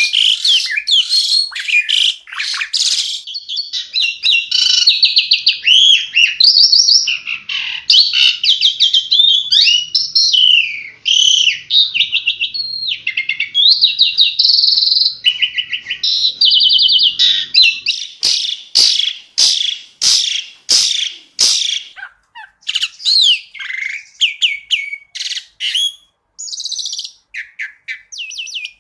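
Asian pied starling (jalak suren) singing a fast, varied song of whistles, trills and chattering notes, loud and without pause. In the second half it breaks into a run of sharp clicking notes, about two a second.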